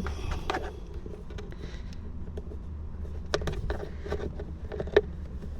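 Plastic clicks and knocks of car interior trim, the glovebox and cabin air filter housing, being pushed back into place, the sharpest knock near the end, over a low steady hum.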